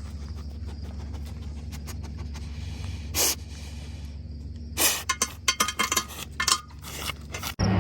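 Metal clinking and rattling, like tools and hardware being handled: one short clink about three seconds in, then a quick run of clinks and rattles over the next two seconds, over a steady low hum.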